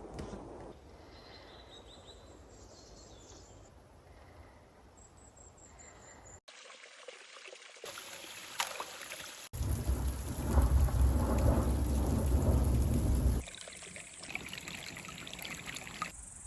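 Nature ambience in abrupt cuts: a quiet stretch with faint high chirps, then, about ten seconds in, a few seconds of heavy rain with a deep rumble of thunder that cuts off suddenly, followed by quieter outdoor hiss.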